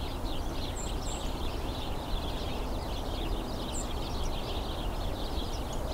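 A flock of house sparrows chirping together, many overlapping calls without a break, with a few thin high notes above them and a steady low rumble underneath.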